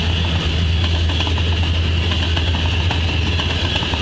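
Freight train of tank cars rolling past at steady speed: a low rumble with a scatter of faint wheel clicks over the rail.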